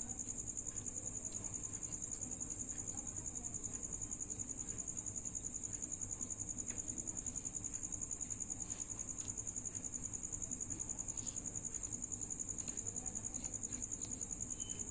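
An insect trilling: a steady, high-pitched, rapidly pulsing trill, with a few faint clicks here and there.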